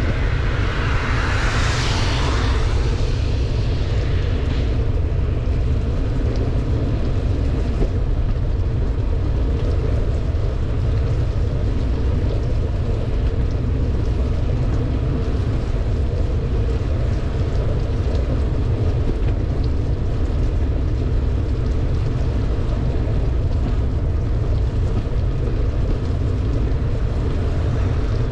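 Steady wind rumble on the microphone of a camera riding on a bicycle going downhill in heavy rain. A rush of hiss swells and fades over the first few seconds.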